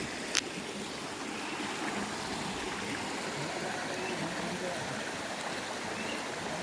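Steady rush of a flowing stream, with a single sharp click about half a second in.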